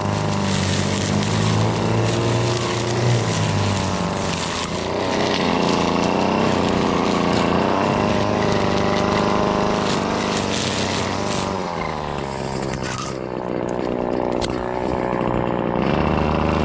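Gas string trimmer's small two-stroke engine running at working throttle, its pitch rising and falling as the load changes. About twelve seconds in it eases off to a lower pitch, then picks back up near the end.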